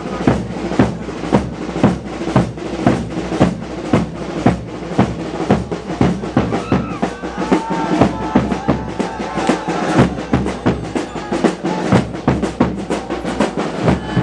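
Drum-led music: loud, steady drum strikes about twice a second, with a high melody on a wind instrument coming in about halfway through.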